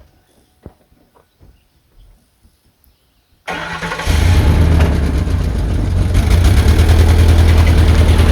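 Faint clicks and knocks, then about halfway through a boat motor starts abruptly and keeps running, loud and steady with a low hum.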